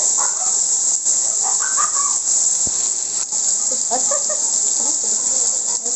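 Steady hiss of heavy rain, with short faint calls scattered through it and one sharp click a little after three seconds.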